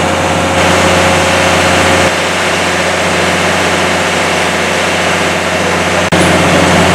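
Railway locomotive standing and running with a loud, steady low hum. The sound breaks off for an instant about six seconds in.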